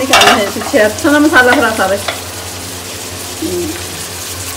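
Stuffed tinda frying and sizzling in oily masala in an aluminium pot, just turned over with a spoon. Some louder pitched, wavering sounds stand out over the first two seconds before the sizzle continues steadily.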